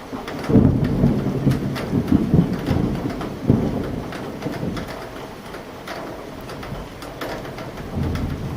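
Thunder rolling over steady rain. A low rumble breaks in about half a second in, rolls with several peaks for about three seconds and dies away, then swells again briefly near the end, while raindrops tap throughout.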